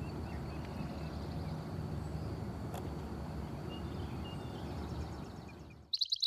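Outdoor ambience: a steady low rumble with a faint high steady tone and a few faint bird chirps. Near the end it cuts to a bird's loud, rapid trill of quickly repeated high notes.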